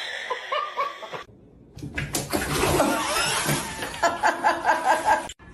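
A person laughing in short repeated bursts, more strongly in the second half.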